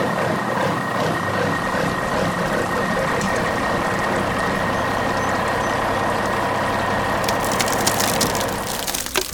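Heavy truck engine running steadily as a cartoon sound effect, with a steady whine over the rumble; faint crackling clicks join in near the end.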